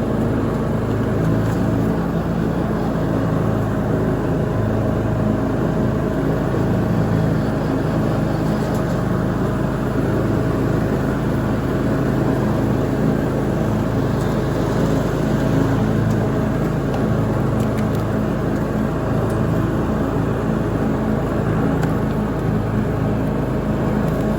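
Lawn mower engine running steadily under mowing load, with an even, unchanging drone.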